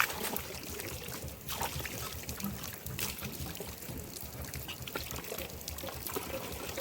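Water pouring and splashing, with many irregular drips and splashes.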